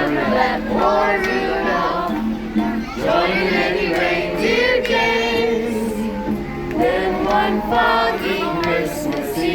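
Music with a group of voices singing, children's voices among them.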